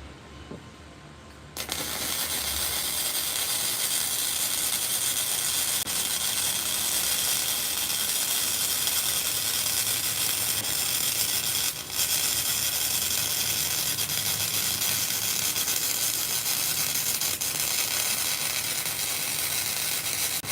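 Self-shielded flux-core welding arc, dragged along the joint, crackling steadily. It strikes about a second and a half in and runs on, with one brief break a little past the middle.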